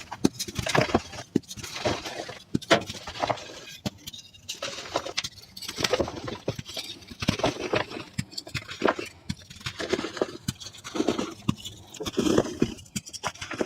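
Reformed gym chalk being crushed and crumbled, played back at double speed: a fast, uneven run of gritty crunches and crackles.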